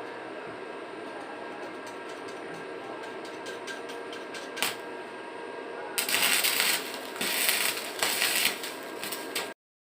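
Metal lathe running with a steady hum and light clicking, then about six seconds in a few seconds of loud scraping, hissing noise before the sound cuts off suddenly.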